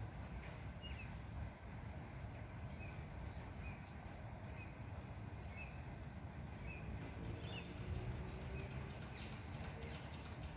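Small birds chirping, short high calls repeated every half second or so, over a steady low outdoor rumble.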